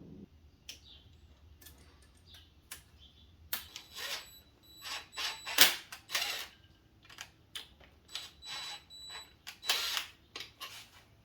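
Metal tools and engine parts clicking, clinking and scraping in an irregular run, a few hits carrying a faint metallic ring; the loudest clank comes about halfway through.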